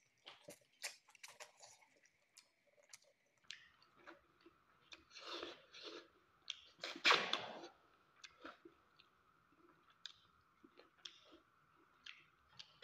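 Close-up mouth sounds of a man eating chicken and rice by hand: chewing with wet smacks and small clicks, and a louder noisy spell about seven seconds in.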